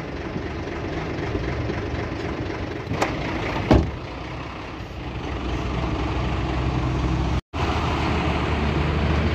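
Hino 500 truck's diesel engine idling steadily in gear, with the clutch held down during a test of a newly fitted clutch. Two sharp clicks come about three seconds in, the second louder, and the sound breaks off for a moment near the end.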